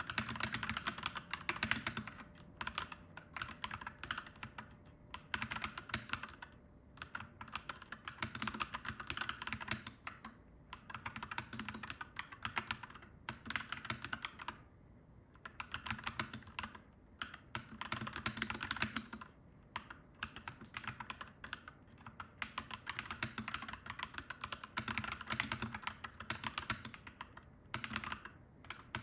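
Clacky mechanical keyboard being typed on fast, with runs of rapid keystrokes broken by short pauses every few seconds.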